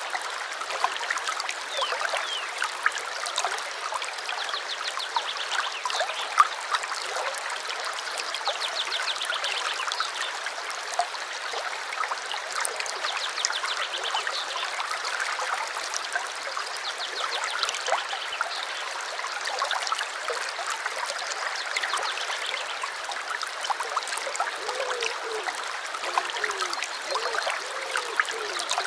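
A small stream babbling and trickling steadily, with small birds singing over it in short, rapid trills.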